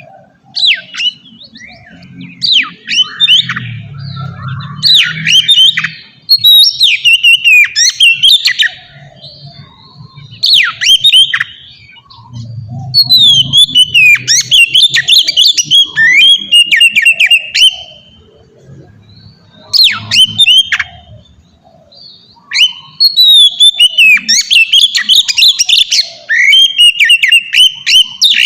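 Oriental magpie-robin (kacer) singing loudly in phrases of quick varied whistles and chirps, each burst lasting a few seconds with short pauses between, and a faint low rumble beneath the song.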